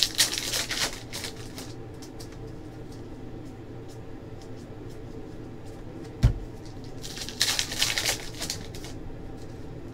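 Trading cards and pack wrappers from 2017-18 Hoops basketball packs being handled: two spells of crinkling and rustling, one at the start and one about seven seconds in, with a single thump about six seconds in.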